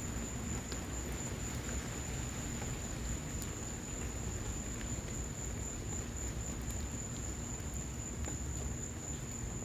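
Rain and a wood fire in a patio fireplace: a steady hiss and low rumble with a few faint crackling pops, and a steady high-pitched tone over it.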